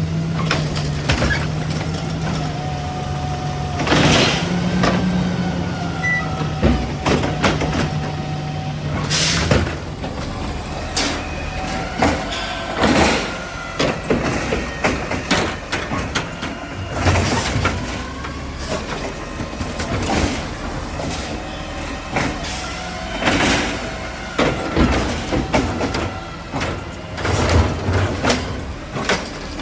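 Garbage truck at work. A steady low engine or hydraulic hum runs for about the first nine seconds, then gives way to repeated metal clanks and bangs with high, bending squeals.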